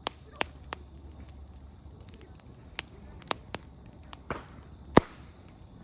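Open wood campfire crackling: firewood popping in irregular sharp snaps over a faint steady background, the loudest pop about five seconds in.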